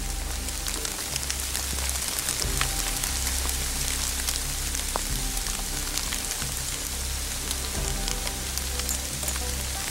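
Steady rain falling on leaves and the forest floor: an even hiss sprinkled with many close, sharp drop ticks. Under it runs background music with held notes and a low bass line.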